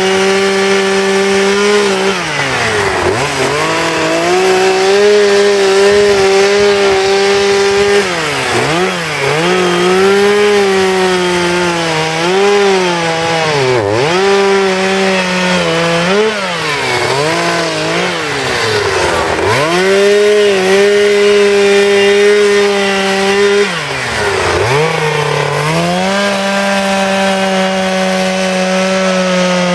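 Two-stroke chainsaw carving wood, running at high revs with its pitch dropping sharply and recovering about ten times as the throttle is eased and reopened.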